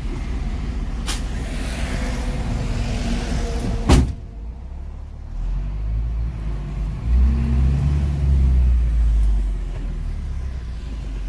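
Fire truck engine running under a steady hiss. A sharp thump comes about four seconds in, the hiss drops away after it, and the engine's low rumble swells from about seven seconds before easing off.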